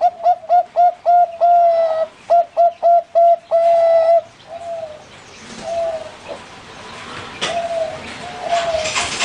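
Bangkok-line zebra dove (perkutut) singing its cooing song: a quick run of short notes, then a few longer drawn-out notes, ending about four seconds in. Fainter coos from other doves follow, with a sharp click about 7.5 seconds in.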